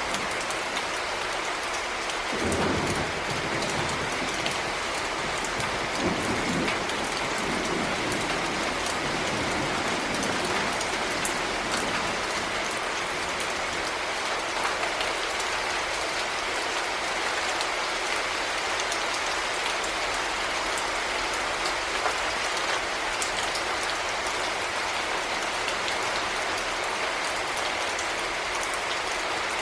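Heavy rain falling steadily, an even hiss of drops, with brief low rumbles about two seconds in and again around six to ten seconds in.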